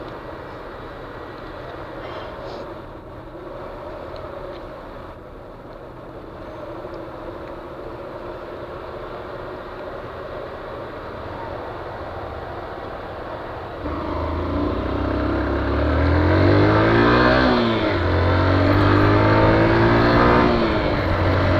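Honda CG 125 Fan single-cylinder motorcycle engine running while riding, with road and wind noise. About fourteen seconds in it gets louder and the engine revs climb and fall back as the bike accelerates through the gears, then settle to a steady run.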